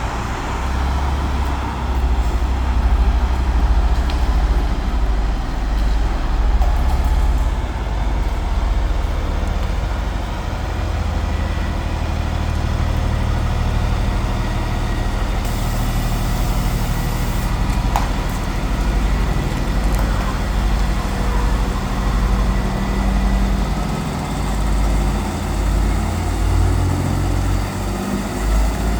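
Kenworth T909 heavy truck's diesel engine running with a deep, steady low drone whose pitch drifts slightly up and down.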